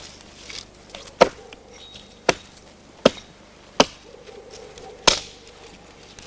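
Axe chopping into a green branch: five sharp blows, about a second apart.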